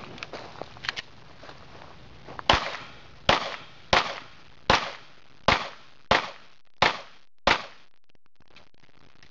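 Pistol shots on a USPSA stage: eight sharp reports fired at an even pace, about one every 0.7 seconds, starting a couple of seconds in. Fainter pops come in the first second.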